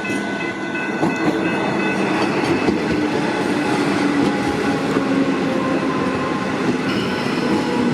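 Comeng electric suburban train running past, a loud, steady rumble of its wheels on the track with a low hum that falls slightly in pitch in the second half.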